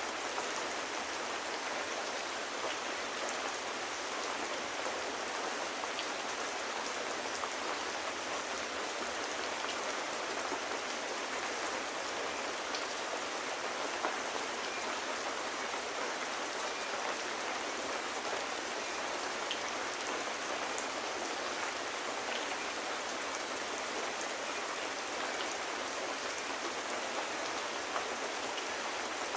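Steady, even rain falling on a surface, with scattered faint drop ticks.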